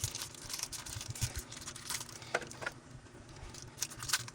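Scattered light clicks and taps of ball bearings and small parts being handled on a workbench.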